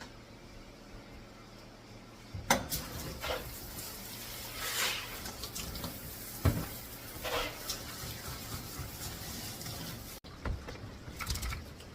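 Scattered light clinks, knocks and short scrapes of handling at a dog-grooming bathtub, with faint water sounds underneath.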